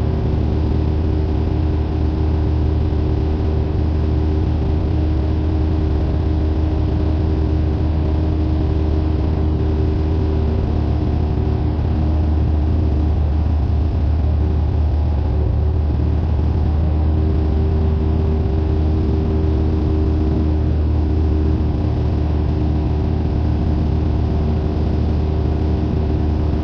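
Cessna 172N's four-cylinder Lycoming engine and propeller running at a steady setting, a constant drone with no change in pitch.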